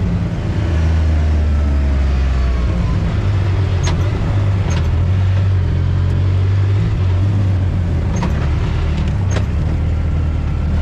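ATV or side-by-side engine running steadily under way on a trail, its speed shifting slightly a couple of times, with a few sharp knocks from the machine jolting over the trail.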